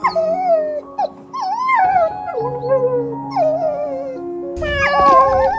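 Sad background music with held notes, over an animal's whimpering, howl-like cries that waver and slide in pitch, several in a row.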